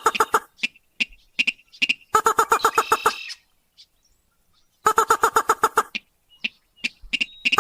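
Rail (sintar / mandar padi) calling: fast rattling runs of harsh repeated notes in bursts about a second long, three of them, with single short notes between. It is a looped lure recording used to draw in rails.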